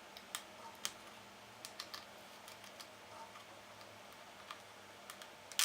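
Irregular small clicks and taps of a screwdriver and small hardware being handled against a laptop's parts, with one sharper click near the end.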